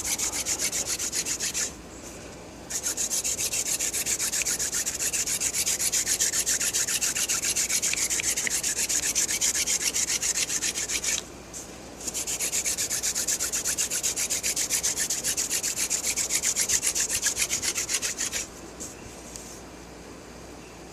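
Wooden hand drill spindle spun back and forth between the palms in a fireboard notch: a fast, rhythmic wood-on-wood rubbing. It comes in three runs, with short breaks about two seconds in and about eleven seconds in, and it stops about eighteen seconds in. This is friction drilling that builds the dust for an ember.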